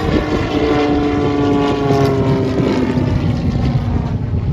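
An aircraft making a low pass, its engine tone sliding slowly downward in pitch as it goes by, over a steady rumble.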